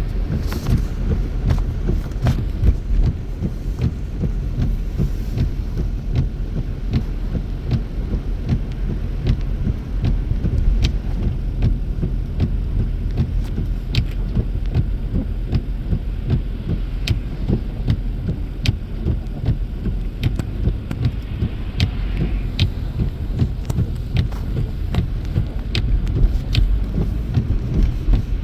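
Car running down the road, heard from inside the cabin: a steady low rumble of engine and tyre noise, with scattered sharp ticks throughout.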